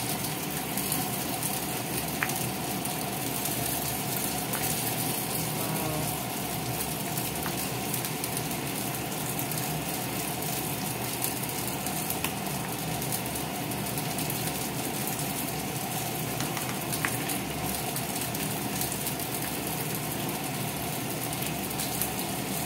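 Steady sizzling and bubbling from fish frying in oil and a pot of vegetable soup boiling on a gas stove. A few light clicks of a ladle against the pot come through as it is stirred.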